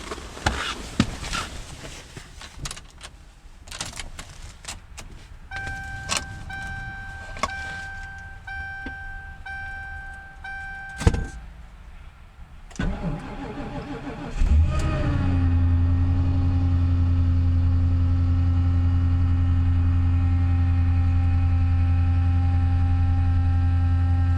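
Clicks and knocks, then a warning chime repeating about six times and a sharp clunk, before the 2008 Ford Crown Victoria P71's 4.6-litre V8 cranks for a couple of seconds, catches and settles into a steady idle in -30°F cold. A steady whine from the power steering pump runs over the idle, a sign of the extreme cold.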